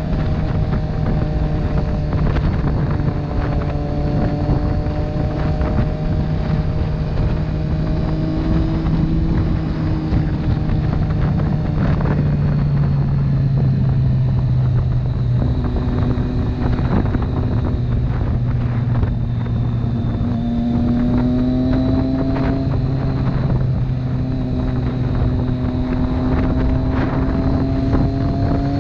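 Motorcycle engine running at a steady cruise, heard from on the bike with wind rushing over the microphone; its note drops slightly about halfway through.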